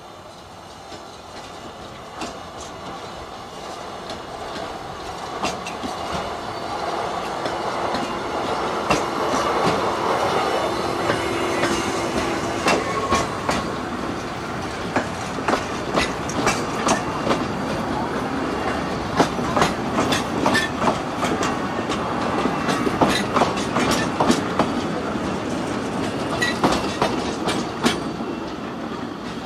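Narrow gauge passenger train, hauled by a battery-electric locomotive, approaching and passing close by: the running sound grows louder over the first ten seconds or so, with a brief hum from the locomotive as it goes past. The carriages then roll by with a steady clickety-clack of wheels over rail joints.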